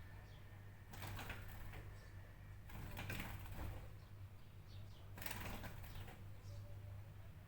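Faint short bird chirps over repeated bursts of rustling noise, about one every two seconds, and a steady low hum.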